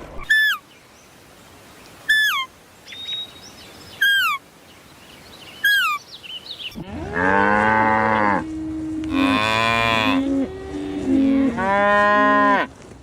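Cattle mooing: three long, loud calls one after another in the second half, over a lower held call. Before them come four short, high chirps, each falling in pitch.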